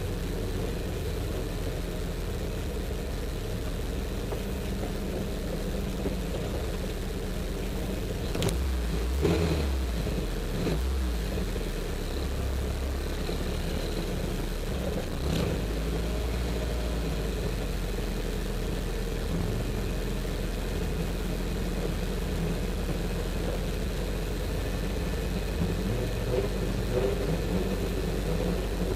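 Rally car's engine idling steadily, heard from inside the cabin, with a brief change in engine note and a few short knocks about a third and half of the way through.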